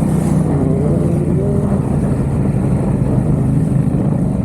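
Yamaha XSR700's parallel-twin engine, fitted with an aftermarket Mivv exhaust, running steadily at a constant pitch while the bike is ridden.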